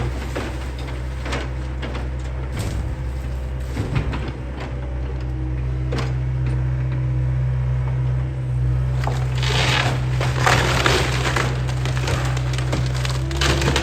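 John Deere excavator engine running steadily while the machine crushes the wooden house, with scattered cracks and knocks. About nine seconds in, dense cracking and splintering of timber sets in.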